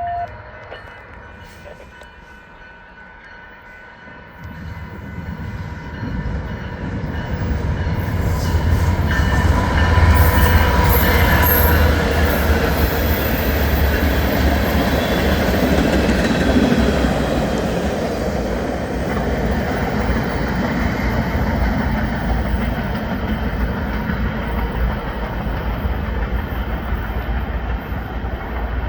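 A diesel-hauled train approaches and passes. A low rumble builds from about four seconds in and is loudest around ten to twelve seconds in as the locomotives go by. After that come the steady noise and clatter of the cars rolling on the rails.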